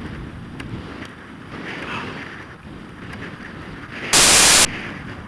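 Strong blizzard wind rushing across the microphone, a steady rumbling hiss. About four seconds in, a loud burst of hiss cuts in for about half a second and stops abruptly.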